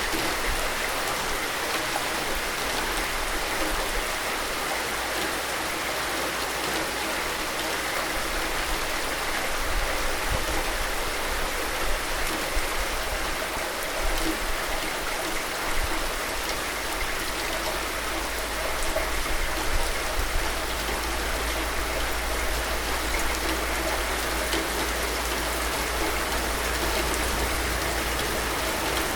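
Steady rain falling: an even, dense hiss with scattered drops pattering.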